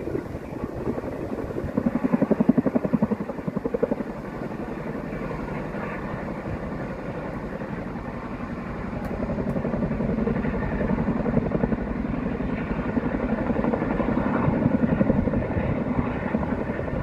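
Helicopter rotor beating in a fast even rhythm, louder and more pulsing for a couple of seconds near the start and growing louder again from about nine seconds in.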